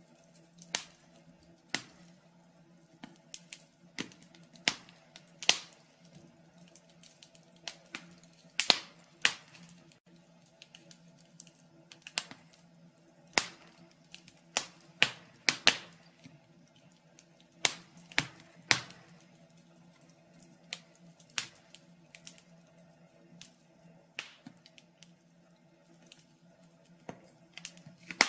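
Wood fire burning in a fireplace, crackling with irregular sharp pops and snaps, a few of them louder, over a faint steady low hum.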